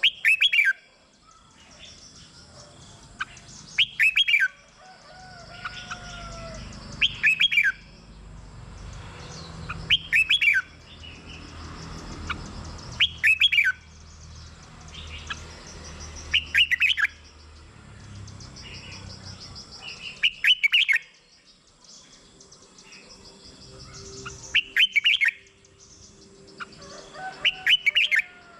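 Red-whiskered bulbul singing: short, loud, quick whistled phrases repeated about every three seconds, with fainter chirps in between.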